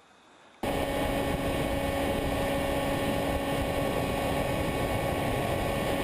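A steady motor hum over loud rushing noise, cutting in abruptly under a second in.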